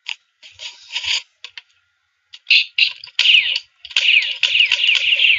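Sound-effect gunshots: a string of high-pitched, quickly falling zaps, sparse at first and crowded together in the second half.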